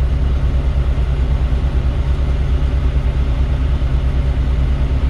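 A heavy diesel engine idling: a steady, low, quickly pulsing rumble.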